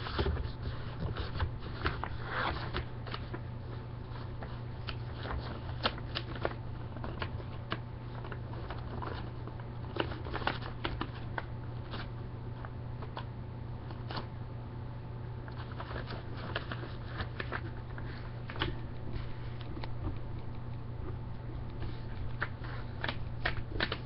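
A sheet of printer paper being folded and creased by hand: irregular rustles and crinkles, over a steady low hum.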